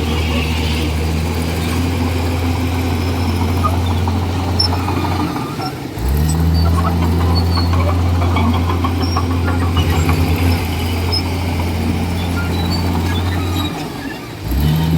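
Komatsu D41E bulldozer's diesel engine running steadily under load, its note dropping away briefly about five seconds in and again near the end before picking back up, with faint squeal and clatter from the tracks.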